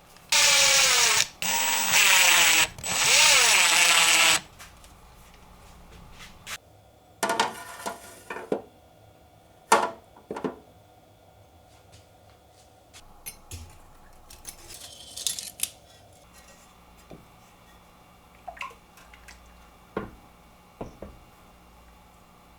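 A small electric power tool runs in three short bursts, its pitch dipping and rising as it is loaded. Scattered clicks and knocks follow, with one sharp knock about ten seconds in.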